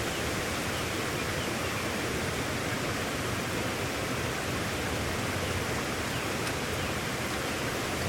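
Rain falling steadily: an even hiss with no breaks or changes.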